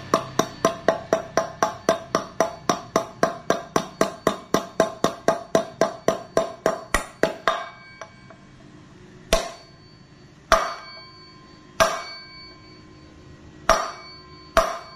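A hammer striking metal, driving a wheel bearing into a motorcycle's rear hub. It goes in quick, even taps, about four a second, for some seven seconds, then five slower single blows, each ringing metallically.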